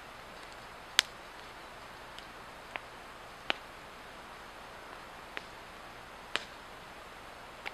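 A Swedish torch (slit-log fire) crackling: about six sharp pops at uneven intervals, the loudest about a second in, over a steady hiss.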